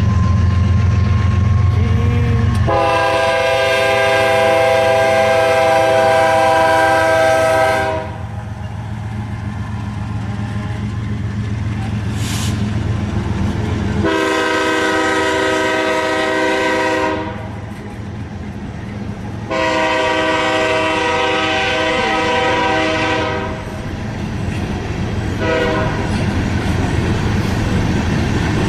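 Diesel freight locomotive sounding its multi-chime air horn: three long blasts and one brief blast near the end, over the steady rumble of the locomotive and train rolling past.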